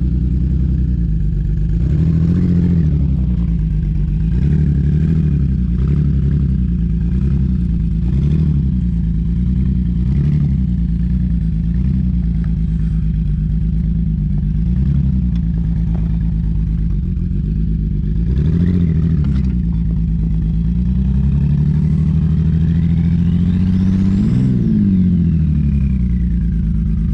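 2010 Ford Taurus SHO's 3.5 L EcoBoost twin-turbo V6 idling and blipped a dozen or so times in quick short revs, then revved longer near the end, with a high whine climbing and falling away as the revs rise and drop.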